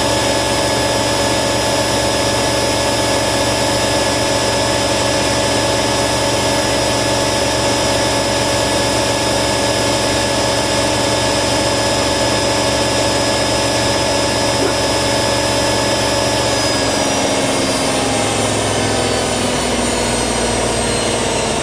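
Hoover WDYNS654D washer dryer on a high-speed spin, its motor and drum whining steadily; about three-quarters of the way through the whine starts to fall in pitch as the drum slows down.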